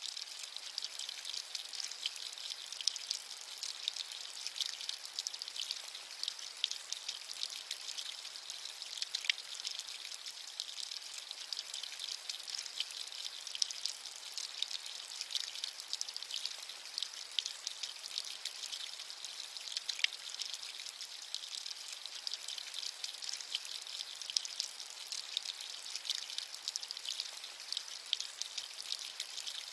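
Steady rain falling, a continuous high hiss full of small, crisp drop ticks, with no low rumble.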